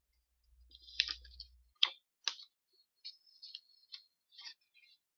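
Light, irregular clicks and ticks; the three sharpest come about one, two and two and a half seconds in, with fainter ticks after.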